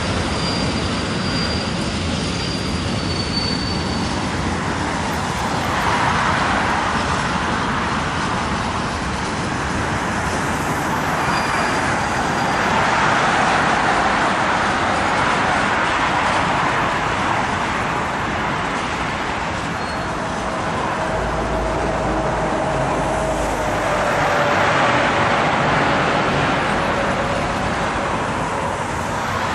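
Freight train of open-top wagons rolling across a railway bridge with a steady rumble, mixed with road traffic passing on the carriageway below, the noise swelling and easing several times.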